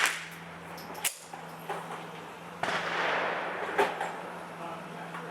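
Sig 522 semi-automatic .22 LR rifle firing single shots, sharp cracks about a second in and near four seconds in, with a noisy rush around three seconds.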